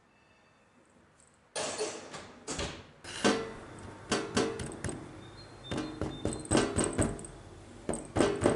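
Near silence, then from about a second and a half in, kitchen clatter: a run of irregular knocks and clacks of things being handled and set down.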